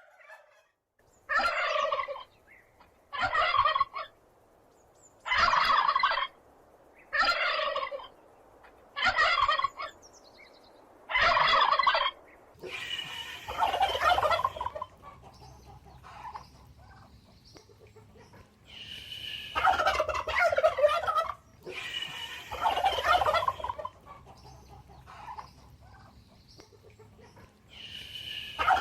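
Domestic turkey gobbling: six short gobbles about two seconds apart, then from about halfway on longer gobbles spaced several seconds apart.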